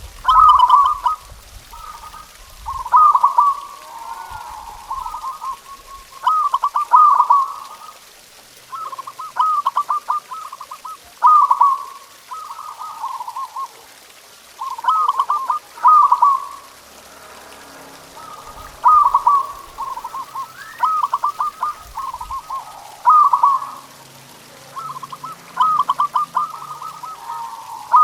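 Zebra dove (perkutut) singing its cooing song: phrases of quick staccato coo notes, repeated every two to four seconds.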